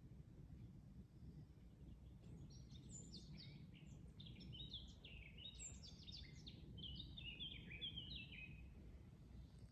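A songbird singing one long, rapid phrase of quick falling notes, starting a couple of seconds in and stopping shortly before the end, faint over a steady low rumble of background noise.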